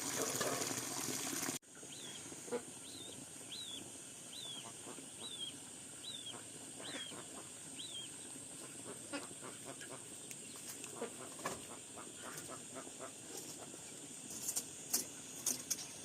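Water gushing that cuts off suddenly about a second and a half in. A bird then gives a high, downward-sliding peep about eight times, more than one a second, followed by scattered soft clicks and knocks, with a cluster of sharper clicks near the end.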